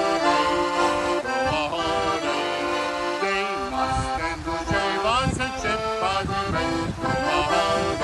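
Accordion playing a sea-shanty tune on its own, a melody over held chords.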